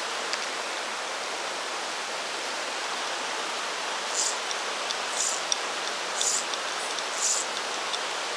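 Mountain stream flowing, a steady rush of water. In the second half, four short high hissing swishes come about a second apart.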